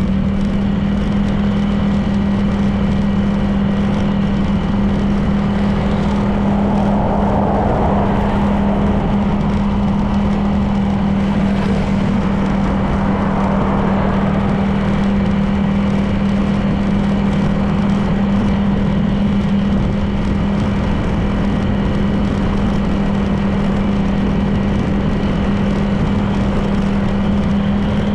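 Honda PCX 160 scooter's single-cylinder four-stroke engine running at a steady cruising speed, its tone holding even.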